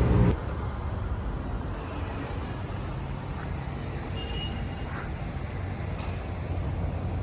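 Steady low vehicle rumble with a few faint ticks. A louder low engine sound cuts off abruptly just after the start.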